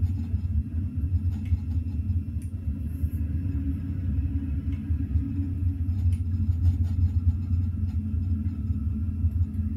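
Steady low rumble of a Class 373 Eurostar train running at speed, heard from inside the carriage.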